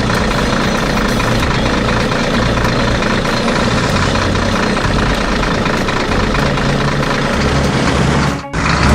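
Heavy truck engine sound effect running steadily, with a brief break near the end before a new sound starts.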